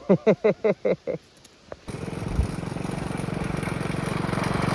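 A short burst of laughter, then a small mini bike engine running steadily with a fast, even putter. The engine starts abruptly about two seconds in and grows a little louder.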